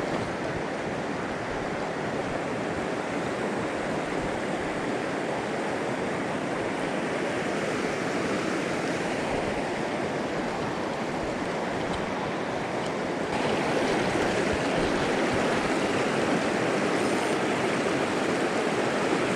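River water rushing steadily, a loud even roar of flowing water that gets louder about two-thirds of the way through.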